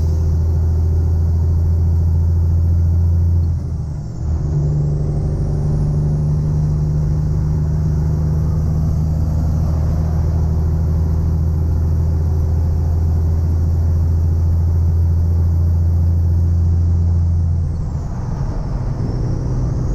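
Peterbilt tow truck's diesel engine running on the road, a steady drone with a faint high whine. About four seconds in the note drops briefly and picks up at a new pitch, as on a gear shift, and it drops again near the end.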